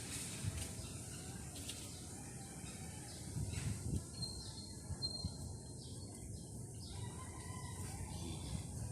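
A few faint, short, thin bird chirps over a steady low rumble, with a few soft low thumps around the middle.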